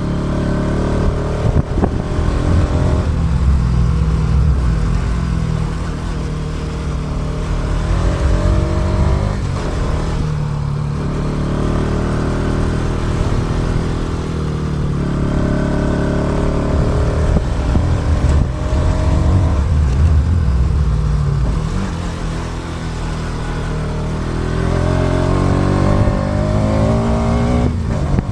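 Motorcycle engine under way, revving up and easing off several times as it accelerates through the gears, picked up by an action camera's built-in mic along with heavy wind rumble.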